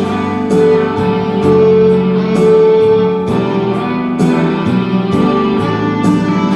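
Solo harmonica in the key of G, playing a slow melody in long held notes over a recorded accompaniment with strummed guitar and a steady beat.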